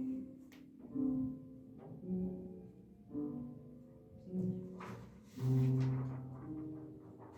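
Piano accompaniment: low notes and chords struck about once a second, each dying away, the lowest and loudest a little past the middle.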